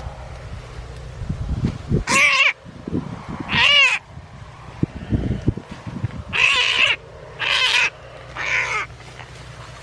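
Five loud, harsh animal calls of about half a second each, spaced one to three seconds apart, with rustling and handling knocks between the first few.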